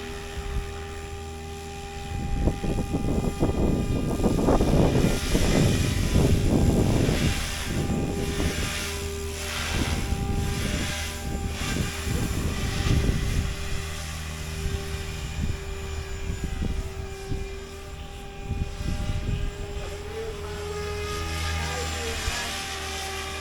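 Radio-controlled helicopter in flight: a steady whine from its motor and rotor, with a louder rushing noise for several seconds in the first half.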